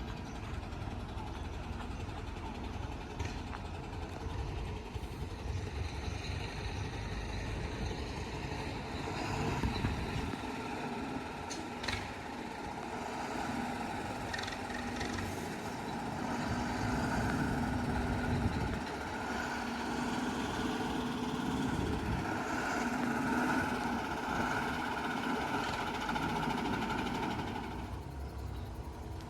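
A JCB 3DX backhoe loader's diesel engine runs, then revs up and works harder from about ten seconds in, with a single sharp knock about twelve seconds in. The engine note drops back near the end.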